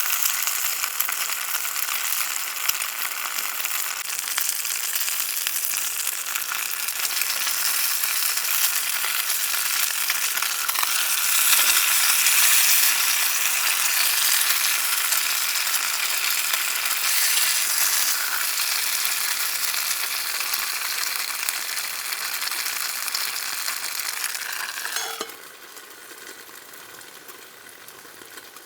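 Food sizzling as it cooks over a campfire: a steady, dense crackle that falls away suddenly about 25 seconds in.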